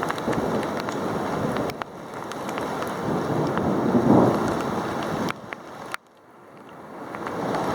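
Thunderstorm wind and rain buffeting the microphone in strong gusts, swelling to a peak about four seconds in and cutting away abruptly a few times.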